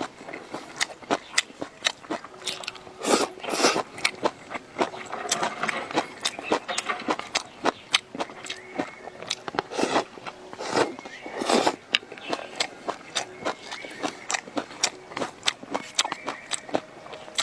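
A person chewing and biting food close to the microphone, with many short crisp clicks and a few louder, longer wet mouth noises.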